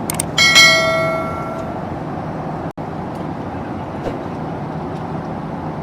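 Steady in-flight cabin noise of a Boeing 767-300 airliner, a constant rushing rumble. About half a second in, a short bright ringing tone sounds and fades away over about a second. The sound cuts out for an instant near the middle.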